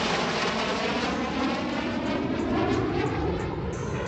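Airplane flying past at an air show: a loud, rushing engine sound whose pitch slides downward as it goes by.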